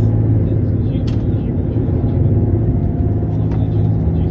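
Diesel engine of a JR Shikoku 2700 series railcar running with a steady low drone. Two brief clicks sound over it, about a second in and again near the end.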